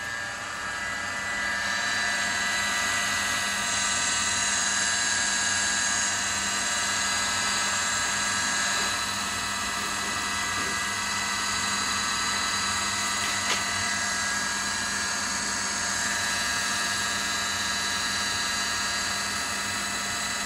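Electric motor running up to speed over the first couple of seconds, then running steadily with a constant whine and hum.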